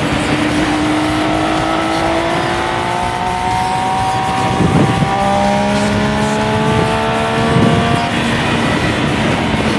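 Triumph Daytona 675's three-cylinder engine pulling under load, its revs climbing slowly, over heavy wind noise. About halfway through the pitch drops at a gear change and then climbs again.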